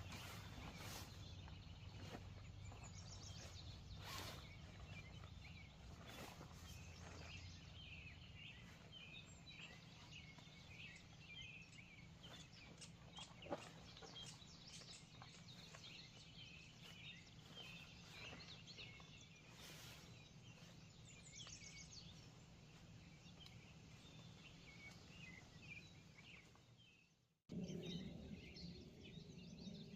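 Faint outdoor ambience with many small, scattered high chirps over a low steady hum. There is one sharp click about halfway through, and near the end the sound cuts out briefly before returning a little louder.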